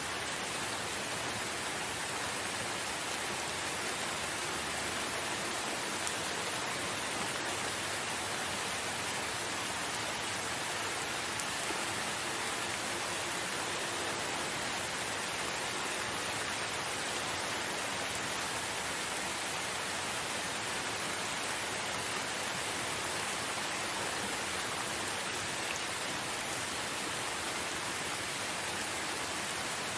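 Steady rain falling in a forest, an even hiss with no breaks or thunder.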